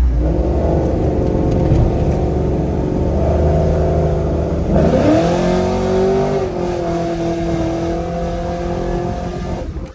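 Cammed GMC Sierra V8 pulling away under throttle through its automatic transmission: the engine note climbs, drops and climbs steeply again about five seconds in as it shifts, then eases off into a steady cruise. The sound cuts off abruptly just before the end.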